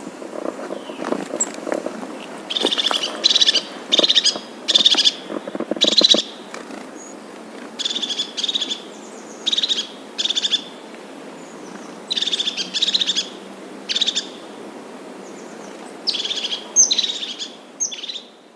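A bird calling: short, high-pitched calls repeated in groups of two to four, roughly one a second, with pauses between the groups. A lower-pitched sound is heard in the first couple of seconds, and the sound cuts off abruptly at the end.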